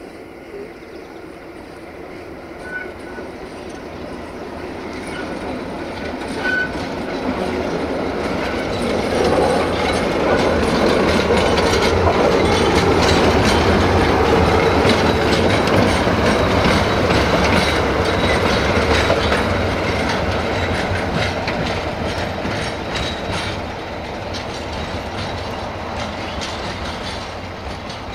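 A diesel train passing, its wheels clacking over the rail joints. It grows louder to a peak around the middle and then fades away.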